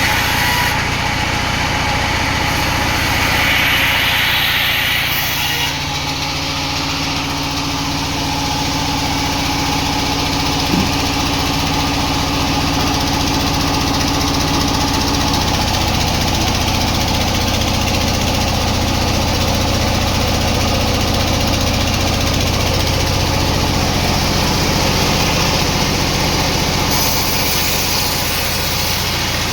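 Sawmill machinery running steadily: a continuous motor hum under a broad rushing noise, with one sharp knock about eleven seconds in.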